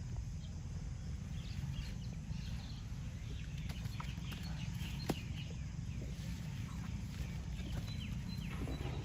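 Outdoor ambience: a steady low rumble with many faint, short chirps and small clicks scattered through it, and one sharp click about five seconds in.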